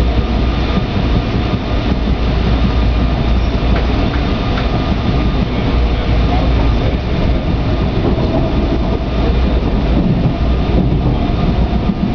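Train running, a steady rumble with a few faint clicks.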